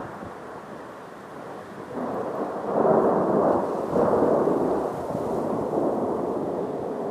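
Rolling thunder of thundersnow: a long rumble that swells about two seconds in, is loudest around three to four seconds, then slowly fades.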